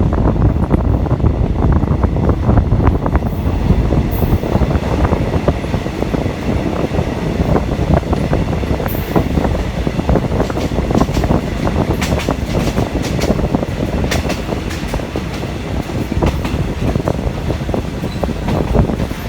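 A moving passenger train heard from on board: a steady, loud rumble, with a run of sharp clicks from about halfway through.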